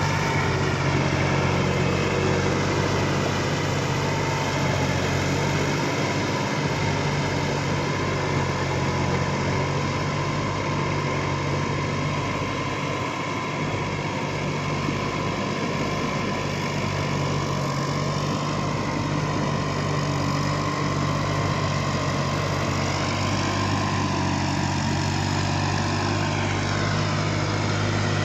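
New Holland 6010 tractor's diesel engine running steadily at idle, its pitch shifting slightly in the last third.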